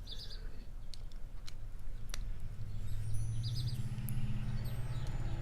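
A few faint clicks as a padlock is handled and locked with its key, with a short high chirp about three times, typical of a bird, and a low steady hum that swells about halfway through.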